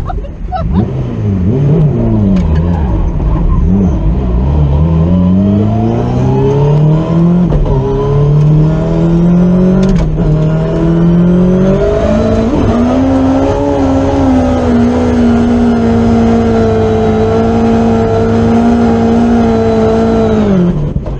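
Drift car engine under hard throttle, its pitch climbing in steps with brief dips over the first half. It then holds steady at high revs for about eight seconds and drops off near the end.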